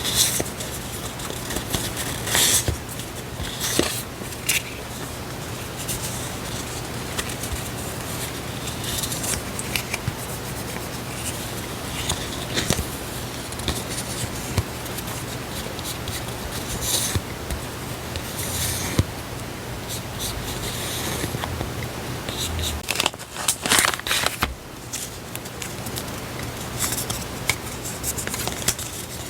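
Paper and stationery items being handled close up: irregular crisp rustling and crinkling with occasional sharp snips and taps, over a steady low hum.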